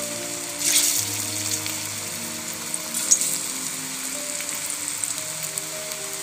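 Gram-flour (besan) squares shallow-frying in hot oil in a kadai: a steady sizzle, with a short louder flare-up of sizzling just under a second in.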